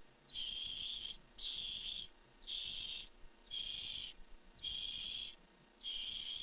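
Barn owl owlets giving their hissing begging call, the 'snore' that nestlings use to beg for food: about six rasping hisses, each about half a second long, repeated roughly once a second.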